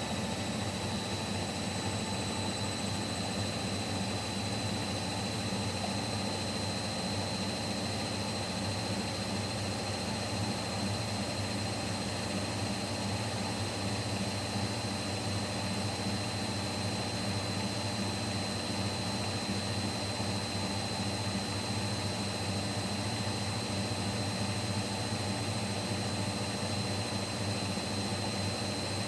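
Siemens Siwamat Plus 574 front-loading washing machine in its final spin at 800 rpm. The drum and motor run steadily with a low hum and a thin, high whine above it.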